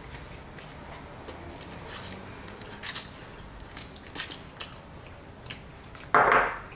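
Close-up eating sounds of fried chicken: chewing and biting, with scattered small clicks of chopsticks and a glass bowl. A brief louder sound about six seconds in.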